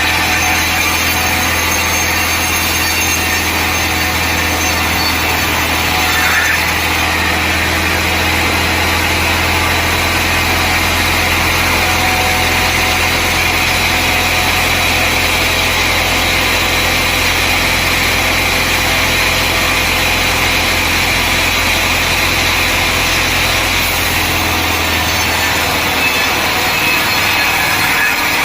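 Sawmill machinery running steadily: a powered log saw and its engine, cutting timber. The deepest part of the hum drops away a few seconds before the end.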